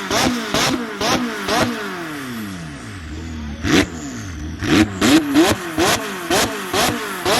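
Stage 2 tuned McLaren 600LT's twin-turbo V8 being blipped rapidly, about three revs a second, each blip ending in a sharp exhaust crack. About two seconds in, the revs fall away into a brief lull, broken by a single loud crack, before another string of quick blips with cracks.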